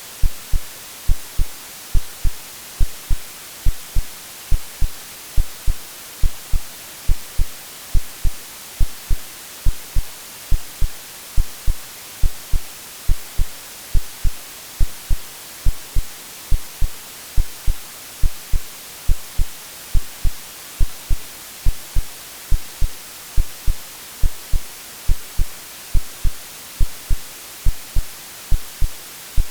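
Synthetic heartbeat, paired low thumps (lub-dub) repeating steadily about once a second, over a constant bed of white noise hiss.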